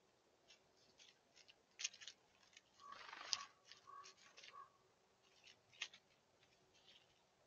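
Faint, irregular sharp clicks and crunches of seeds being cracked and pecked at a backyard feeder, with a short scratchy burst and a few brief notes about three seconds in.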